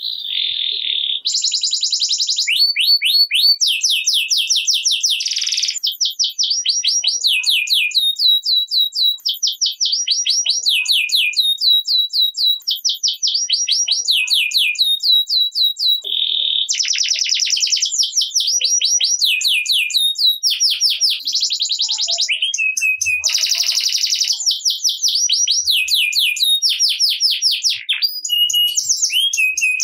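Domestic canary singing a long, unbroken song made of fast trills of rapidly repeated high notes. Each trill lasts a second or two before the bird switches to the next.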